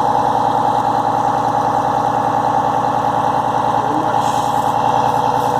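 1991 Spartan rescue truck's engine idling steadily and smoothly; the engine is a replacement about a year and a half old, described as running absolutely beautiful.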